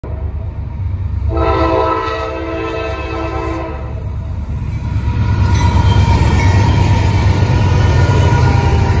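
Norfolk Southern diesel locomotive horn sounding one long chord, about two and a half seconds, over the low rumble of the approaching engines. From about four seconds in, the lead diesel locomotives pass close, their engine rumble and wheels on the rail growing louder.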